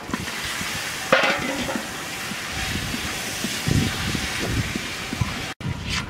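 Fish pieces tipped into a hot wok of spice paste and sizzling, with a sharp clatter about a second in as they land. From about halfway a wooden spatula stirs and scrapes them around the metal wok over the steady sizzle.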